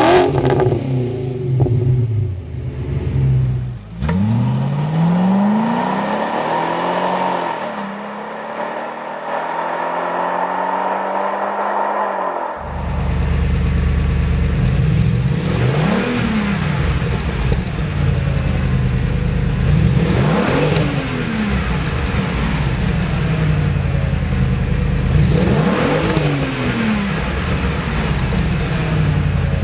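Exhaust of a modified Audi C5-generation car running and being revved, across several short clips. The last clip has a loud, deep idle with three quick throttle blips about five seconds apart.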